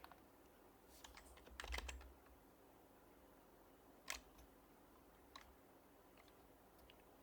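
HHKB Professional Hybrid Type-S keyboard with silenced Topre switches, typed on sparsely. There is a quick run of soft keystrokes about a second in, then single keystrokes now and then, the sharpest about four seconds in.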